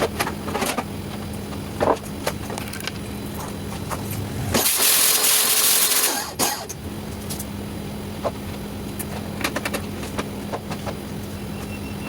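Scattered clicks and knocks of washing machine parts being handled and fitted back together over a steady low hum. A loud hiss rises about four and a half seconds in and cuts off roughly a second and a half later.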